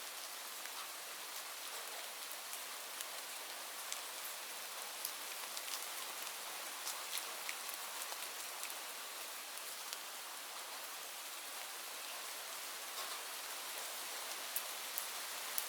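Steady rain falling, a continuous hiss with scattered individual drops ticking sharply on a hard surface.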